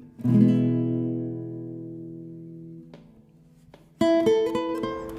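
Background acoustic guitar music: a strummed chord rings out and fades, then a picked, rhythmic passage starts about four seconds in.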